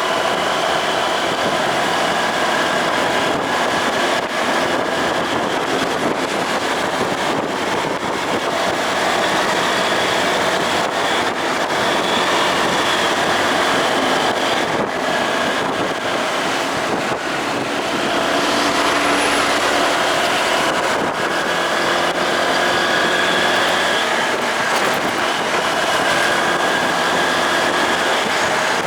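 Delivery motorcycle under way: the engine runs steadily with road and wind noise throughout.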